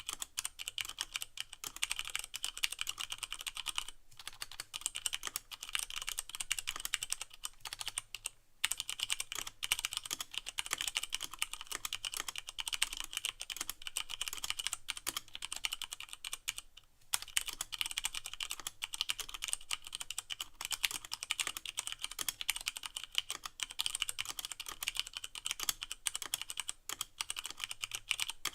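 Continuous typing on a Leopold FC660M mechanical keyboard with Cherry MX Brown switches and no O-rings: a fast, dense run of key clacks with brief pauses about four, eight and seventeen seconds in.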